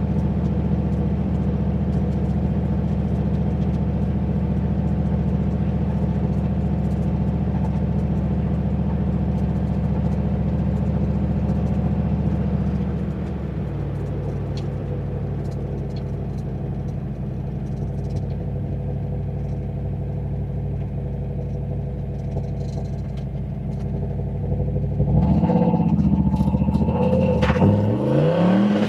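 Turbocharged 351 Windsor V8 of a Ford Foxbody Mustang running at a steady cruise, heard from inside the car. About halfway through it eases off to a slightly lower, quieter drone. Near the end it gets louder, with the revs climbing and falling several times as it accelerates hard.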